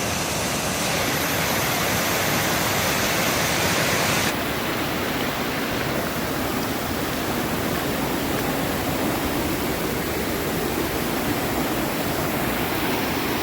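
Rushing water of a mountain stream pouring over a waterfall crossing, a steady loud rush; the sound turns a little duller about four seconds in.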